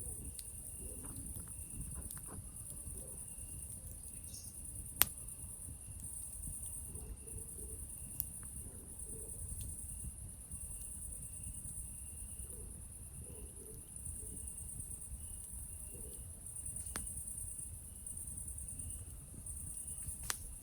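Chorus of night insects, a steady high trill, over a crackling campfire with a few sharp pops, the loudest about five seconds in.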